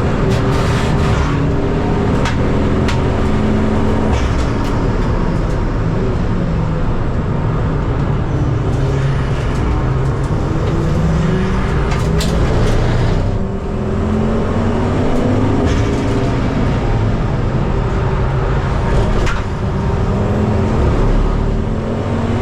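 Race car engine running hard, its pitch rising and falling over and over as it accelerates, lifts and changes gear, with some sharp clicks over it.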